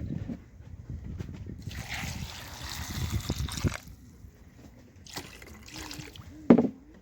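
Water being poured, trickling and splashing for about two seconds, with a sharp knock near the end.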